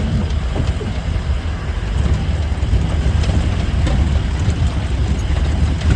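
A motor vehicle running with a heavy, steady low rumble, with wind noise on the microphone.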